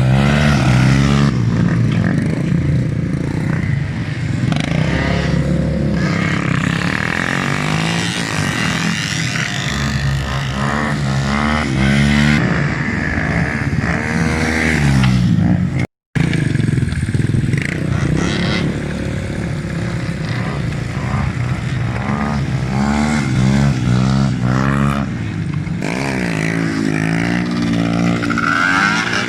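Motorcycle engines running and revving, their pitch repeatedly rising and falling as the bikes accelerate and ease off. The sound cuts out briefly about halfway through.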